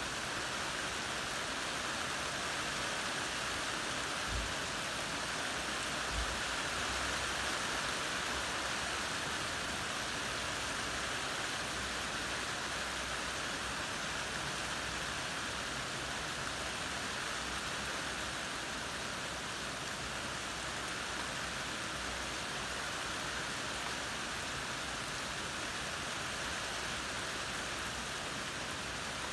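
Heavy rain pouring down steadily in a hard downpour, with two brief low bumps about four and six seconds in.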